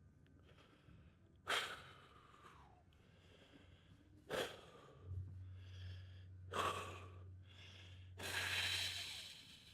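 A man's sharp, forceful exhales, four of them a couple of seconds apart, the last one longer, as he strains to hold flexed bodybuilding poses.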